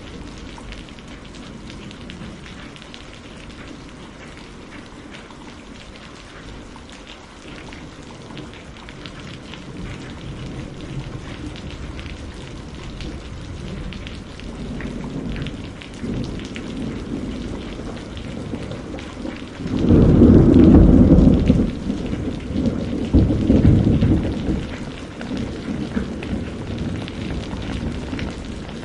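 Steady rain falling, with thunder: a loud low rumble about two-thirds of the way in, and a second, shorter rumble a few seconds later.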